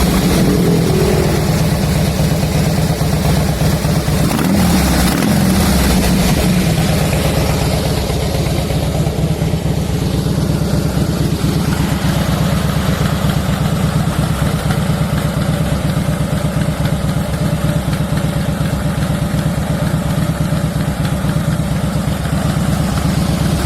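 2014 Harley-Davidson Fat Boy's Twin Cam 103 V-twin running through Vance & Hines fishtail exhaust: revved briefly twice near the start, then settling to a steady idle.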